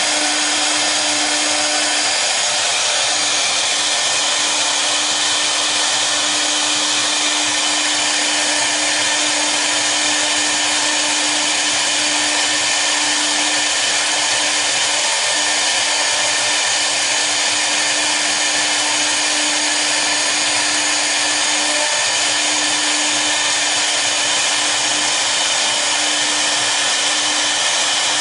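Two spindles of a double-head CNC router running steadily: a loud, even rushing noise with a steady hum underneath.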